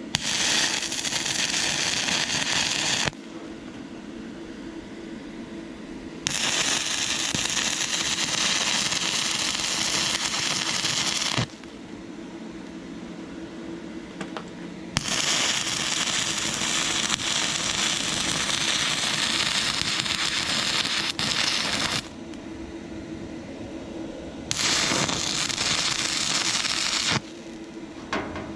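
Stick welding arc from an inverter arc welder burning a 6011 rod on rusty, painted thin metal: a loud, steady crackling hiss that runs in four separate beads, each starting and cutting off abruptly, the longest about seven seconds. A steady low hum fills the pauses between beads.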